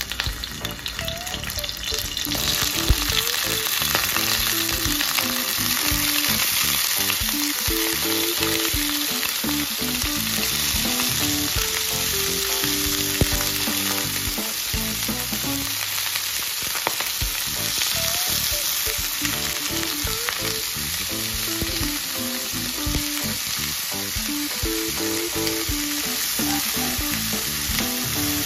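Whole prawns sizzling in hot oil in a stainless steel frying pan, the sizzle building over the first few seconds as more prawns are laid in and then holding steady. Quiet background music plays underneath.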